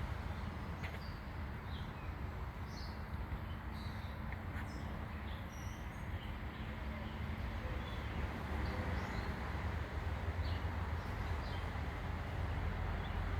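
Scattered short chirps from backyard songbirds, several each second at times, over a steady low background rumble.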